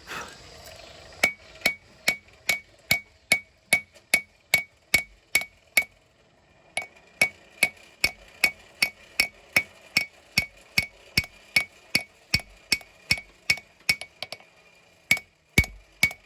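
Blacksmith's hammer striking hot steel on an anvil at a steady pace, about two and a half blows a second, each blow ringing with a high anvil tone. The blows draw out the short tail tang of a small knife, with a brief pause about six seconds in.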